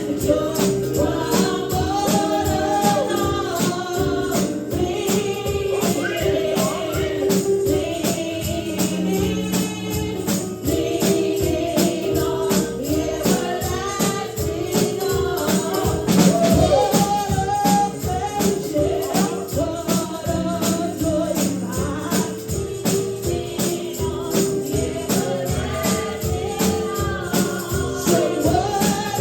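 Live gospel praise and worship music: voices singing over a driving beat with a tambourine shaken in steady rhythm.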